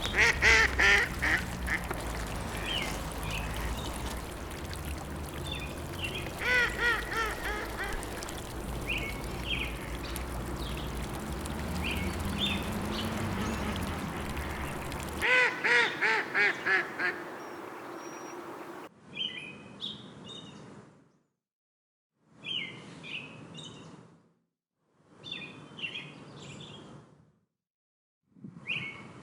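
Ducks quacking in quick runs of several calls each, over a steady low background. About halfway through it cuts to short snippets of small birds chirping, separated by moments of silence.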